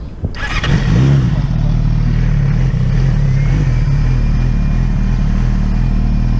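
Sportbike engine starting with a sudden burst, a brief rev about a second in, then settling into a steady idle.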